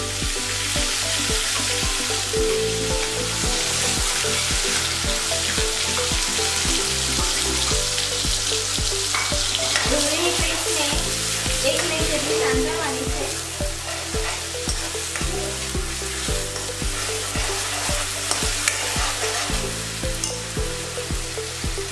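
Onion paste frying in hot oil in a metal kadai, a steady sizzle, while a metal spoon stirs it and scrapes around the pan.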